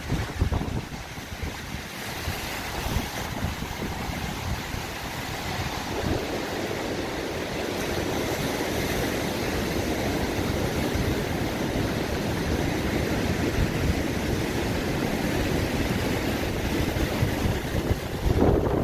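Sea surf washing on the shore, its rush swelling from about six seconds in, with strong wind buffeting the microphone.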